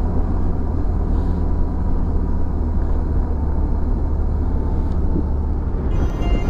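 Motorcycle on the move: steady engine and road noise, heavy in the low end, heard from on the bike. Background music comes in near the end.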